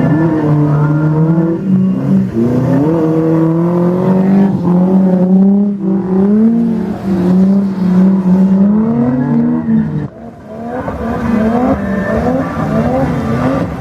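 Car engine revving hard, its pitch rising and falling over and over as the throttle is worked, as when a car is drifted. The revs drop away sharply about ten seconds in, then climb again in quick repeated rises.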